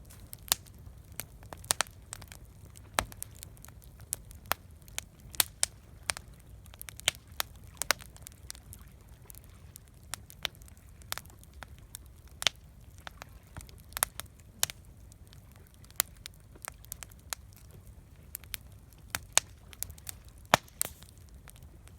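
Wood fire crackling: sharp irregular pops and snaps, a few a second, over a faint low rumble.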